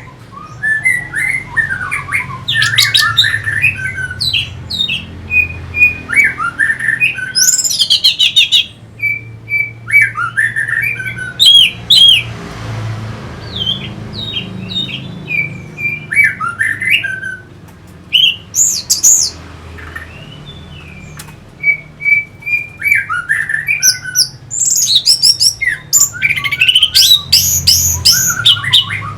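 Orange-headed thrush singing a rapid, varied song of whistles, chirps and trills, delivered in bursts with short pauses between them.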